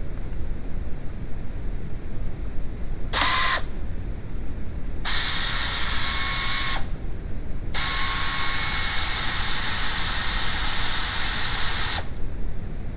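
Power tool run in three trigger bursts: a short blip, then a run of about two seconds, then a longer one of about four seconds, each starting and stopping sharply with a high hissing whine.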